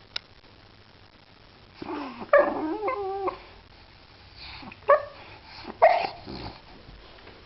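A dog vocalizing: a drawn-out whine with wavering pitch a couple of seconds in, then two short barks about a second apart. A sharp click comes at the very start.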